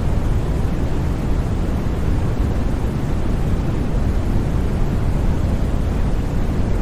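Steady sleep-aid white noise, weighted toward the low end so it sounds like a deep, even rush rather than a bright hiss. It holds level throughout with no changes.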